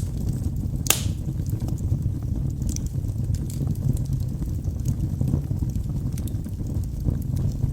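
Wood fire burning in a fireplace: a steady low rumble of flames with frequent small crackles and pops from the logs, one sharper pop about a second in.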